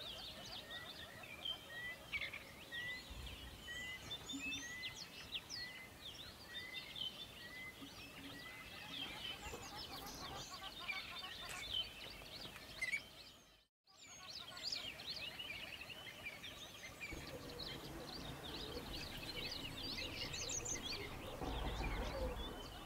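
Birds chirping and singing over a steady background hiss, one bird repeating a short chirp about twice a second for several seconds near the start. The sound drops out for a moment about halfway through.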